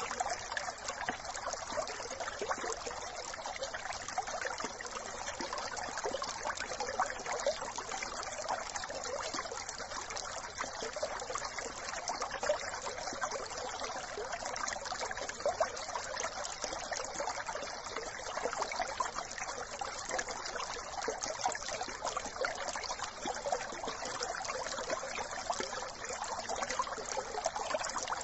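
A small brook flowing over stones, a steady trickling and bubbling of water.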